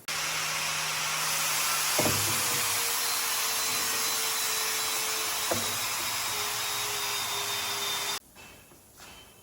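A power tool working wood: a loud, steady hissing noise with a faint hum and two short knocks. It starts and stops abruptly, cutting off a little over a second before the end.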